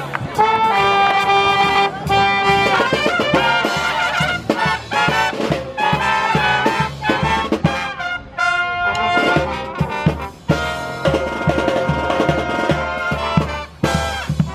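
Live brass band playing an upbeat jazzy tune, with trumpets and trombones carrying the melody over a steady drum beat.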